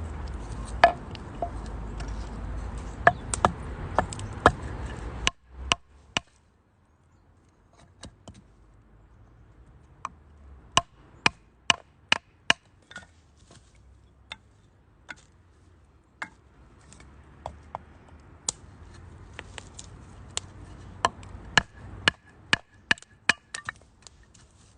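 Firewood burning in a UNIFLAME Nature Stove Large, crackling and popping in sharp, irregular snaps. A low steady rumble runs under it for the first five seconds or so, then cuts off suddenly.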